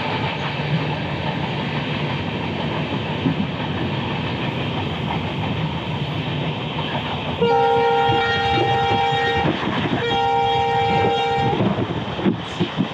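Passenger train running at speed with a steady rushing rumble heard from an open coach window. The locomotive horn sounds two long steady chord blasts, about two seconds each, starting about seven and a half seconds in.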